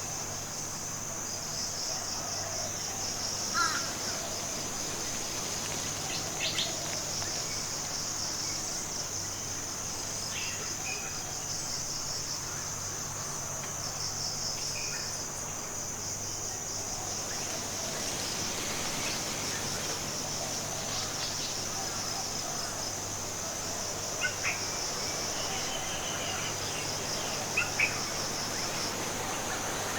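Forest ambience: a steady, high, shrill insect chorus, with a few short bird chirps scattered through it, two in quick succession near the end.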